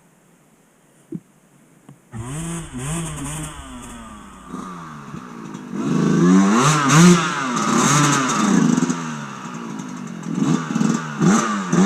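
Dirt bike engine coming in suddenly about two seconds in, then revving up and down with repeated throttle blips, louder from about six seconds in. A brief click comes before it.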